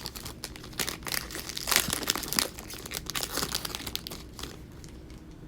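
Plastic wrapper of a trading-card pack being torn open and crinkled, with the rustle of handling. The crackling runs busily for about four and a half seconds, then dies away.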